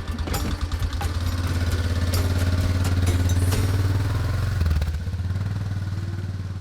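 Old pickup truck's engine running at idle after being coaxed back to life from a no-power, no-click starting fault; a steady low rumble with some clatter in the first couple of seconds. It begins to fade out near the end.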